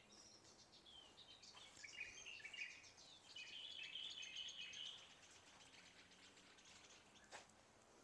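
Faint songbird singing, a run of quick high chirping notes lasting a few seconds, over quiet garden background; a single short click near the end.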